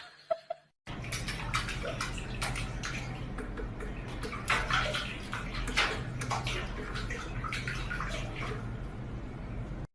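Running water with irregular splashes, starting about a second in and cutting off abruptly near the end.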